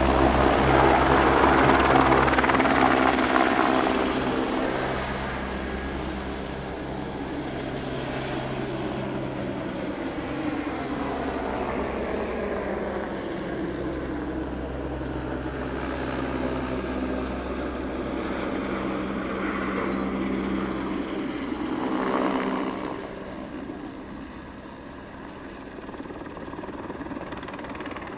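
A steady engine drone with a low hum, loudest in the first few seconds, swelling again briefly about 22 seconds in and then dropping lower.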